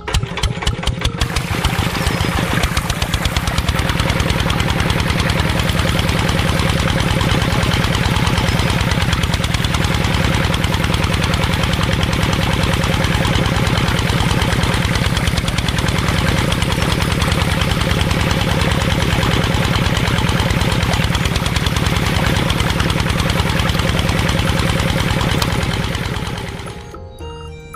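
Diesel engine sound of a miniature model engine driving a toy water pump: it starts with separate chugs that quickly run together, runs steadily, then dies away near the end.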